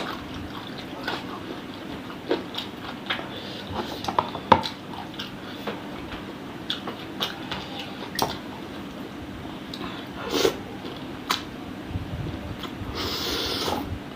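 Close-miked eating sounds of chicken-feet satay: wet mouth smacks and clicks while chewing, scattered irregularly, with a louder noisy stretch about a second long near the end.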